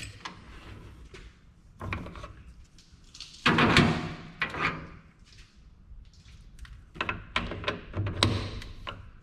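Workshop handling sounds: a series of separate knocks and clunks, with a louder scraping clatter about three and a half seconds in and a cluster of sharp knocks near the end.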